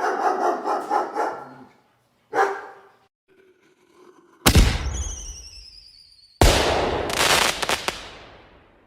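A dog barking in quick succession, then a single bark. Then two sudden loud bangs, each dying away over a couple of seconds; the first has a high ringing that slowly falls in pitch.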